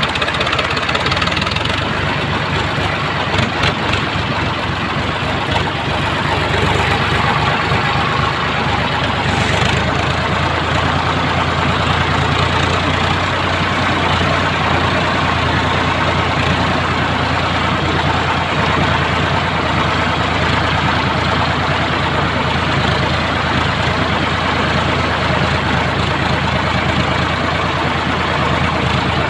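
Sonalika DI 745 tractor's three-cylinder diesel engine running steadily, its note evening out about six seconds in.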